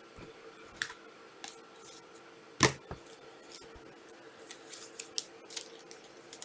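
Trading card packs and cards being handled and opened: a series of short clicks, snaps and light rustles, the loudest snap about two and a half seconds in.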